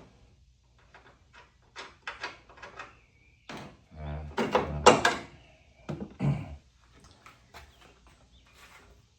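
Knocks, clunks and scrapes of car parts and tools being handled under a vehicle, a run of short knocks, then a louder cluster about four to five seconds in and another just after six seconds.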